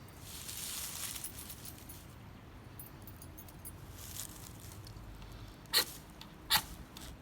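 Pocket knife blade scraped down a keychain ferrocerium rod to throw sparks into a tinder bundle of leaves: a soft scrape at the start, then two short, sharp strikes under a second apart near the end.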